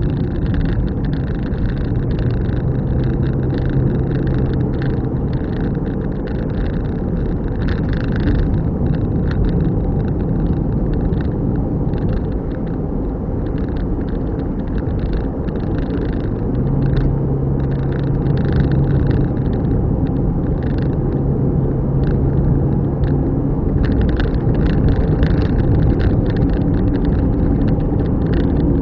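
Car driving along a road: steady engine and tyre noise, with an engine hum that comes up twice for a few seconds and many short ticks and crackles over it.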